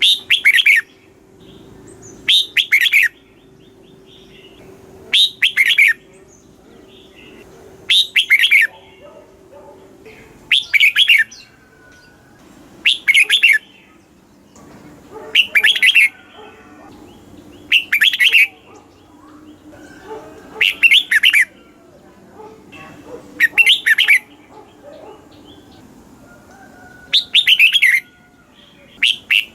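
Red-whiskered bulbul singing short, bright song phrases, each under a second and repeated about every two to three seconds.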